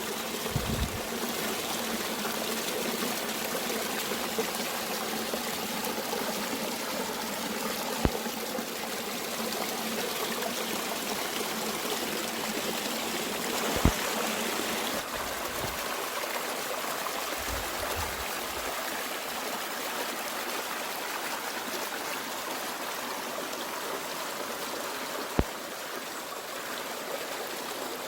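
Mountain stream flowing and trickling steadily, a continuous rushing of water. Three short sharp clicks stand out, about 8, 14 and 25 seconds in.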